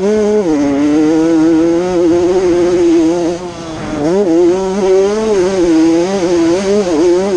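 Honda CR80 80cc two-stroke motocross engine running at high revs while ridden, its pitch wavering up and down with the throttle. About three and a half seconds in it briefly drops off, then revs back up.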